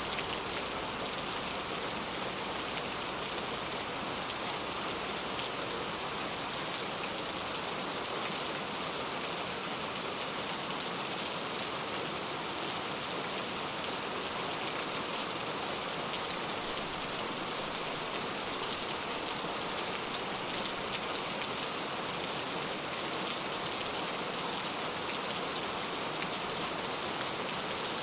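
Steady rain falling, with many individual drops ticking close by over an even hiss.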